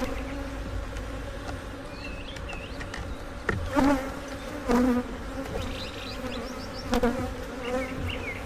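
Honeybees buzzing in a steady hum around an open hive, with louder swells as single bees fly close past several times. The colony is agitated and defensive: "these bees ain't happy".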